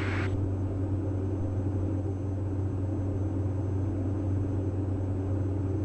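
Steady low drone of the Diamond DA42 NG's twin engines in flight, an even hum with a few steady tones above it.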